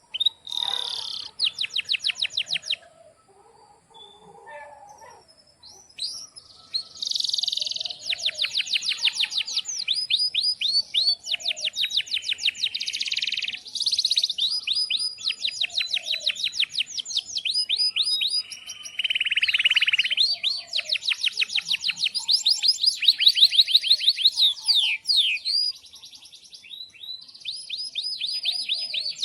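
Domestic canary singing a long, vigorous song: phrases of fast repeated chirps run together into rolling trills, one phrase after another, with a short lull a few seconds in.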